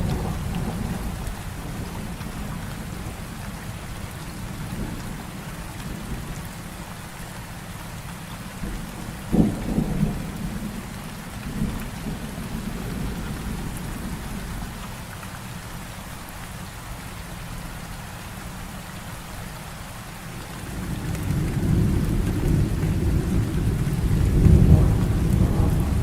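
Heavy rain falling steadily with thunder: a sharp thunderclap about nine seconds in, followed by rumbling, and a low rolling rumble building up again near the end.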